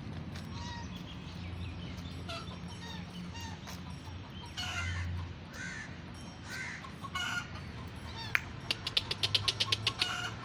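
Birds calling in short, scattered calls over a low steady hum. Near the end comes a quick run of sharp clicks, about five a second.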